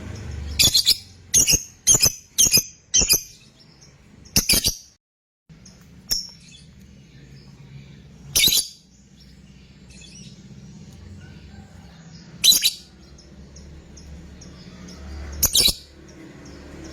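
Fighter lovebird giving short, sharp, shrill calls: a quick run of about six in the first few seconds, then single calls every three to four seconds, over a low steady hum.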